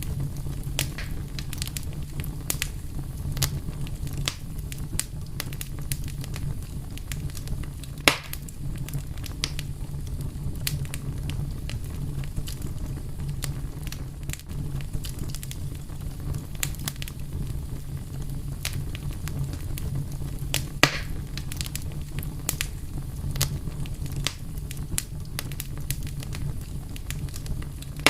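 Fire crackling: a steady low rumble with frequent scattered pops and snaps, and two louder pops, one about eight seconds in and one about twenty-one seconds in.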